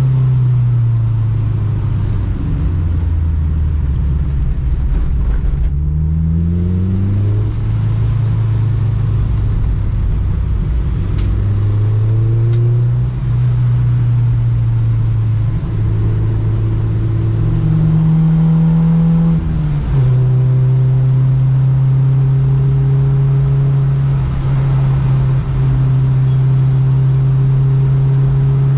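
Honda Civic's engine under load on track, its pitch rising and falling as the driver accelerates and lifts through corners. A sudden drop in pitch about twenty seconds in is a gear change, after which it holds steady. A steady hiss of spray from the wet track runs beneath.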